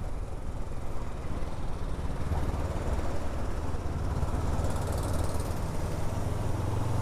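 Honda NX500 motorcycle's parallel-twin engine running steadily at low revs as the bike is ridden, a low hum with road and wind noise over it.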